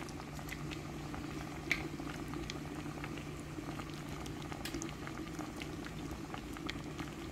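Chicken cooking in olive oil in a pot over medium heat: a steady low sizzle with many scattered small pops and crackles.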